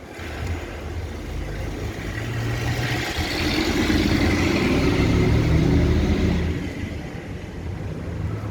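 An engine-driven vehicle passes by, its running engine growing louder to a peak about halfway through and then fading away.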